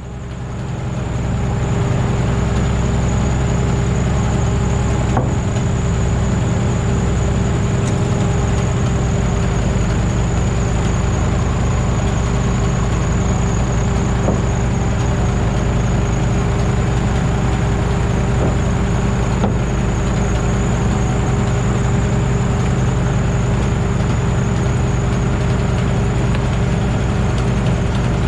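A large engine running steadily at one constant speed, with a faint high whine above it; the sound fades in over the first second or two.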